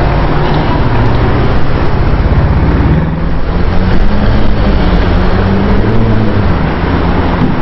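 Car engine running loudly, its pitch rising and falling a little as the revs change.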